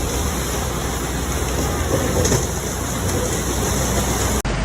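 Loud, steady rushing noise with a heavy low rumble, cut off abruptly near the end.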